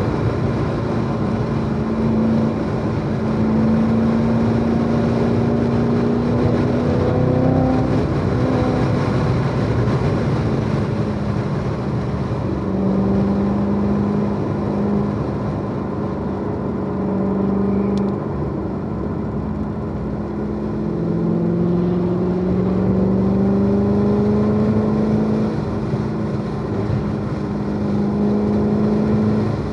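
Chevrolet Corvette C7 Z06's supercharged 6.2-litre V8 under hard acceleration on track. Its note climbs steadily, then falls sharply several times as it shifts gears or brakes, over a steady rush of road noise.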